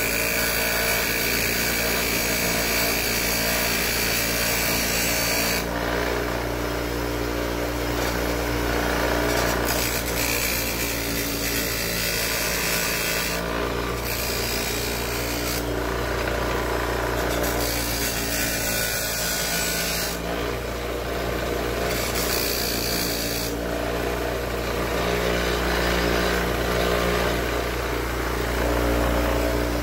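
Electric power tool motor running steadily while the work is pressed against it and ground or sanded, the grinding hiss coming and going every few seconds.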